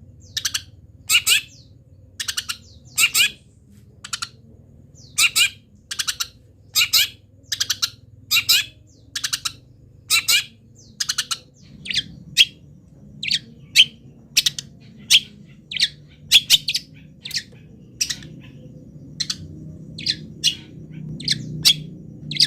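Long-tailed shrike (cendet) singing a rapid series of short, sharp notes, roughly one to two a second and sometimes in quick pairs, in the mimicking style that takes up the calls of other wild birds.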